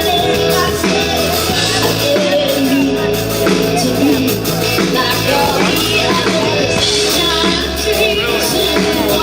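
Live band playing a song, with a bass line stepping between notes under guitars and other instruments.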